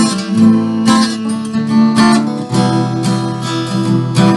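Instrumental music: an acoustic guitar strummed in a steady rhythm, with no singing.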